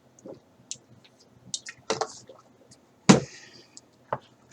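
Handling noises while drinking water: small clicks and knocks, then a loud thump about three seconds in and a lighter knock near the end.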